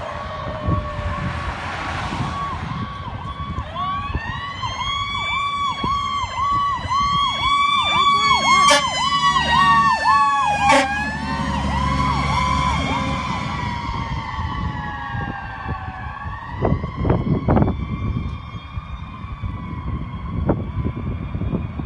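2008 Spartan Gladiator fire engine responding with sirens on: a fast pulsing siren tone together with a wailing siren that rises and falls, over the diesel engine's rumble. About eleven seconds in, the pitch drops sharply as the truck passes, and the wail then winds up again near the end.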